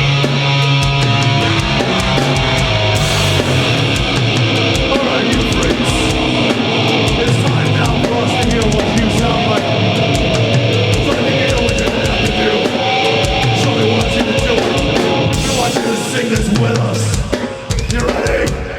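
Heavy metal band playing live: distorted guitars, bass and drum kit at full volume. The music drops back briefly near the end.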